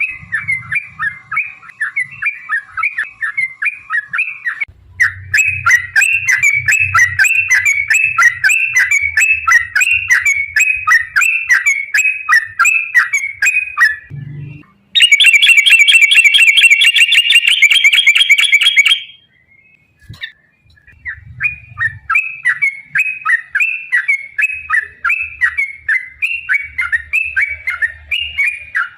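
Yellow-vented bulbul (trucukan) singing a long, fast run of chattering phrases, several notes a second. About halfway through there is a louder, denser burst of about four seconds, then a second of silence before the chattering resumes.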